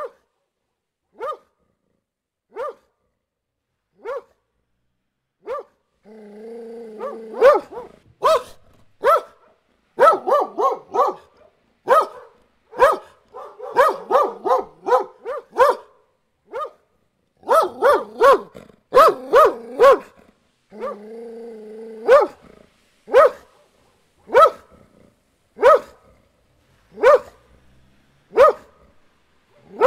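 Dog barking: single barks spaced about a second and a half apart at first. From about six seconds in they come faster and overlap, at times over a steady low held sound.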